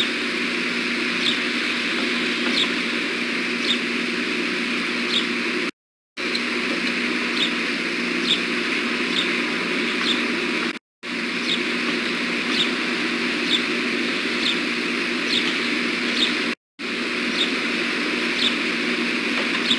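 A short, high bird chirp repeated about once a second over a steady hiss and hum. The sound cuts out completely for a moment three times, as a live stream drops out.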